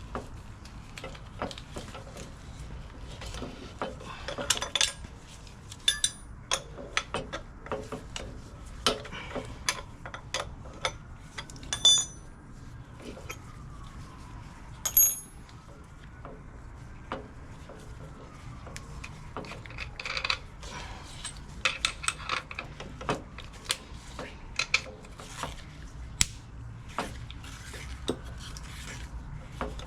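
Metal tools and parts clinking and clanking in irregular handling, with a few sharp ringing metallic hits.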